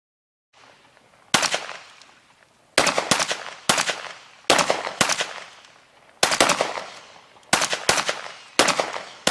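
Scattered gunshots, about a dozen at irregular intervals, each sharp report dying away in a long echo.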